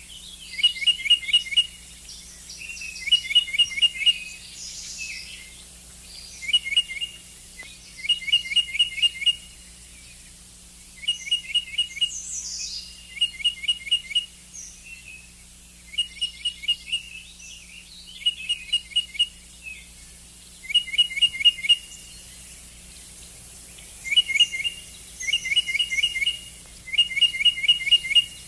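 Tufted titmouse singing its whistled "peter-peter-peter" song: short phrases of three to six clear, slurred notes, repeated every two seconds or so.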